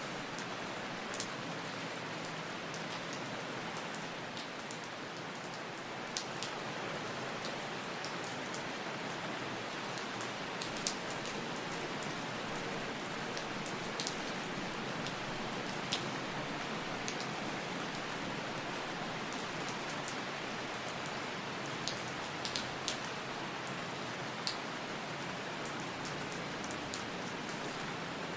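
Steady rain falling, an even hiss with scattered sharper drops pattering close by.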